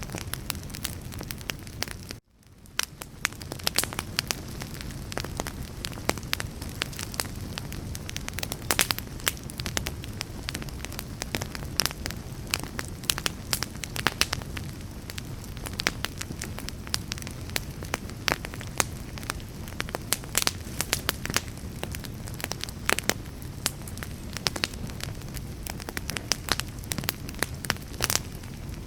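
Wood fire burning steadily with a low rumble of flames and frequent sharp crackles and pops. About two seconds in the sound cuts out abruptly for a moment and fades back in.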